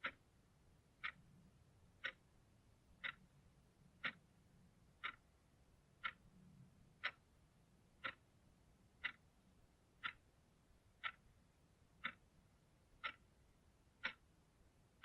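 Analog clock ticking steadily, one short, sharp tick each second.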